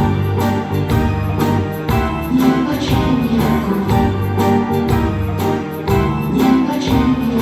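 Live band music from a vocal-instrumental ensemble, an instrumental stretch of a pop song with guitar over a steady beat of about two strokes a second.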